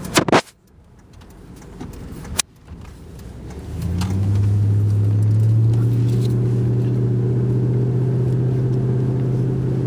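Car engine heard from inside the cabin, a steady low drone that sets in about four seconds in and holds. Two sharp clicks come before it, within the first few seconds.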